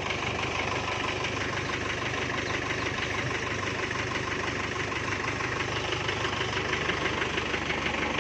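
Kubota MU5702 tractor's diesel engine running steadily while straining to drag a well-drilling truck out of the mud.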